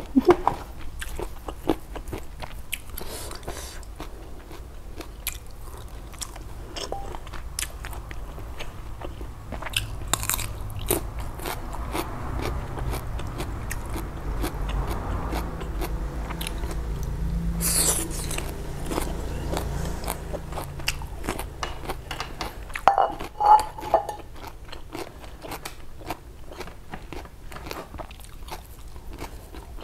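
Close-miked chewing and crunching of food, laab with raw vegetables, with many quick crisp crunches and wet mouth clicks throughout, and a brief hum about three-quarters of the way through.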